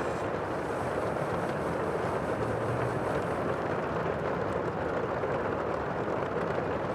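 Steady rushing sea noise with a low rumble beneath, even throughout, with no separate wave breaks standing out.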